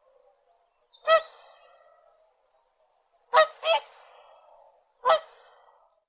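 Whooper swans calling with loud, bugle-like honks: one call about a second in, a quick pair of calls midway, and one more near the end, each trailing off in a short echo.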